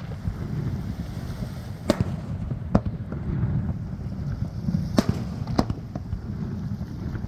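Fireworks display: shells bursting in four sharp bangs, two close together about two seconds in and two more about five seconds in, over a steady low rumble.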